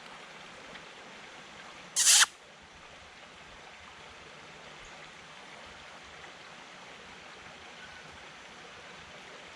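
Steady rush of flowing river water. About two seconds in, a single brief loud swish cuts across it.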